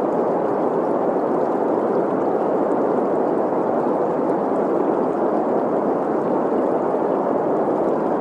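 Steady green noise, an even hiss centred in the middle of the range, blended with the running-water sound of a stream. It holds the same level throughout, with no separate events.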